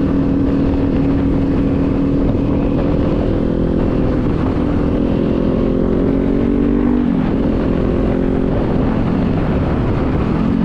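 Kawasaki Z400 parallel-twin motorcycle engine running under way. Its note holds steady, climbs gradually from about four seconds in, drops sharply about seven seconds in as if on an upshift, then holds steady again.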